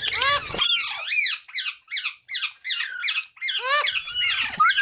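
Indian ringneck parrots squeaking and squawking: a fast run of short, high, arching chirps, several a second.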